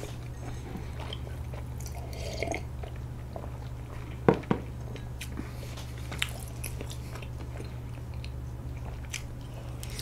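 Close-miked chewing of soft half-moon rice cake (bandal-tteok), with scattered small mouth clicks and a pair of sharp clicks close together about four seconds in, over a steady low hum.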